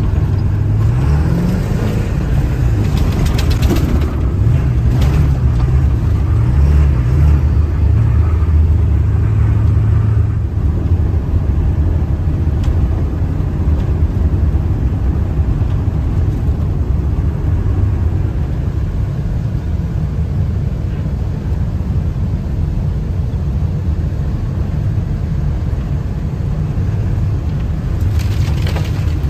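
Ford 7.3 Powerstroke V8 turbodiesel truck engine running while driving, its pitch rising and falling a few times in the first ten seconds, then holding steady over a rumble of road noise.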